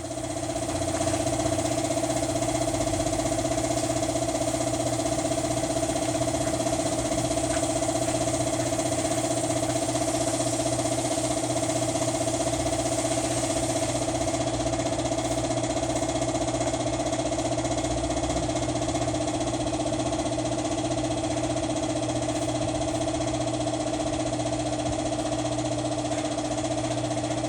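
A motor-driven machine running steadily, with a constant hum over a hiss.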